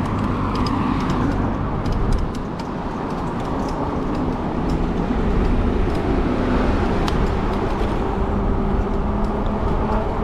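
Steady low rumble of wind and road noise during an e-bike ride, with motor traffic, a few faint steady tones and scattered light ticks.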